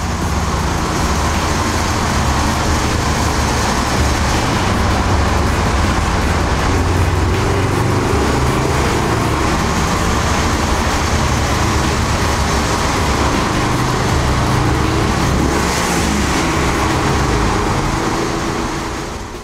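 Subaru WRX STI's turbocharged boxer four-cylinder being revved and pulling through the gears in a road tunnel. The engine note climbs and steps in pitch over a steady wash of road and tyre noise.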